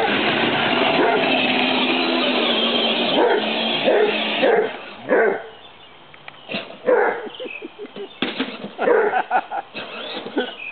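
Hound dog barking repeatedly, with short separate barks through the second half. For the first four seconds a loud steady rushing noise covers it.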